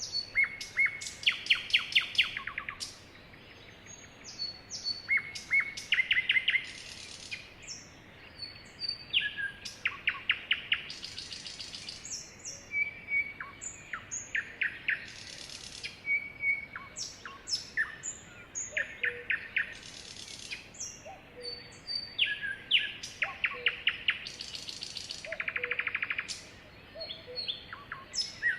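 Sparrow singing: short high chirps and quick trills in phrases that repeat every few seconds.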